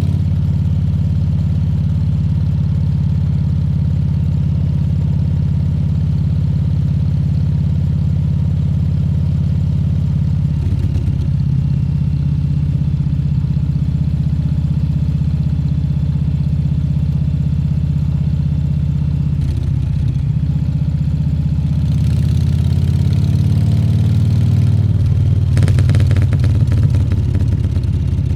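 Harley-Davidson Fat Bob 114's Milwaukee-Eight 114 V-twin running steadily at low revs, its deep exhaust note holding an even pitch. Near the end it grows briefly louder, with a rushing noise over the engine.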